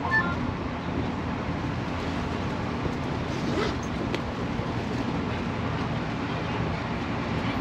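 Parking-lot tram in motion: a steady low rumble of its motor and rolling noise, heard from aboard.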